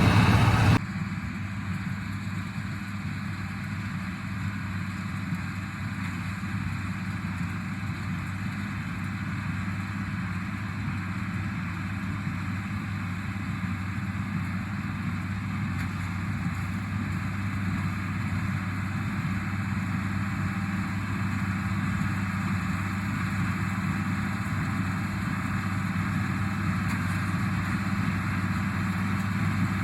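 International Harvester 886 tractor's six-cylinder diesel engine running steadily with a low, even hum. It is louder for the first second, then drops suddenly and holds steady.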